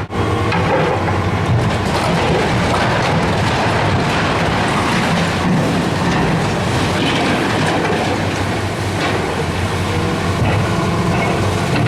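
Heavy demolition machinery at work: a diesel engine running steadily under continuous clattering and crunching of broken building material.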